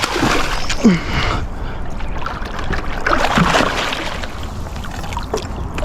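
Water splashing and churning as a big hooked bass thrashes at the surface during the fight, in surges near the start and again midway.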